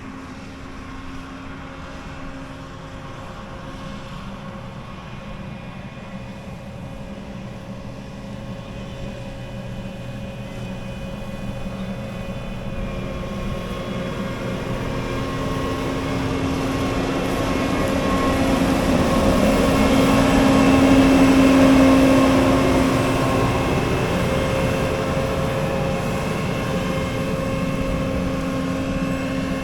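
A steady mechanical engine hum that grows louder to a peak about two-thirds of the way in, then fades somewhat, like a machine drawing near and moving away.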